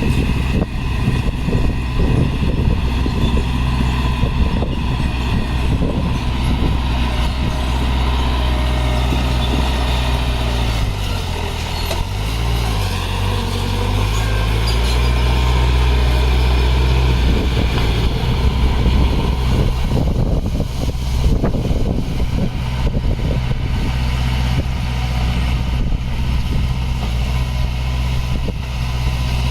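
Heavy diesel engine of an earthmoving machine running under load, with irregular clatter and scraping over it. Its engine note drops and comes back up about halfway through.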